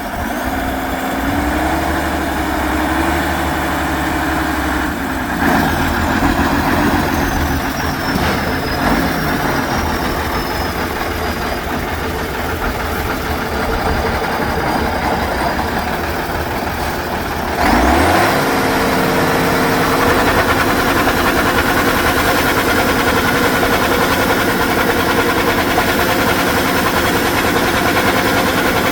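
Heavy off-road truck engine running under load, its pitch rising and falling as it is revved. About eighteen seconds in it suddenly gets louder, then it runs steadily.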